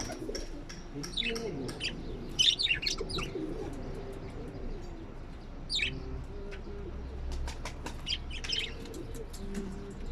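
Small birds chirping in short, quick bursts, with pigeons cooing low underneath. A run of light clicks comes about three-quarters of the way through.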